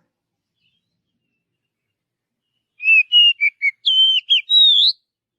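Oriental magpie-robin (kacer) singing a short phrase of clear whistled notes, starting about three seconds in; the later notes are higher, and the last one rises.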